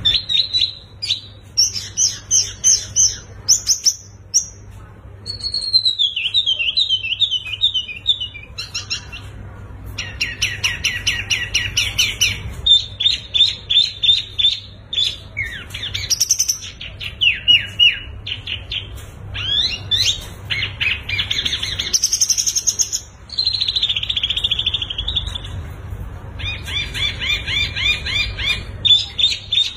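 Several songbirds singing in quick, varied phrases: chirps, trills and rapidly repeated notes, one song following another with short breaks, over a steady low hum.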